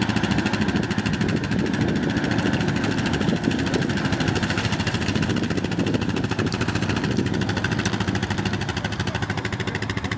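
ATV (quad bike) engine running steadily at low revs, with no revving up or down.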